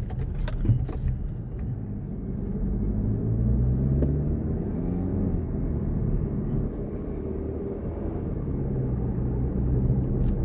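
A car's engine and road rumble heard from inside the cabin while driving. The engine note rises from about three seconds in as the car speeds up, with a few light clicks in the first second.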